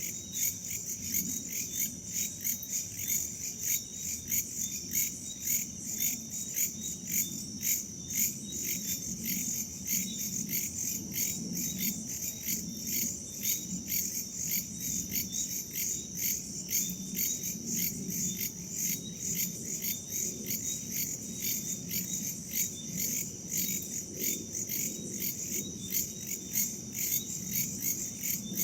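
Dense chorus of crickets and other night insects: a steady high trill with rapid, even pulsing chirps layered over it, and a soft low wind noise underneath.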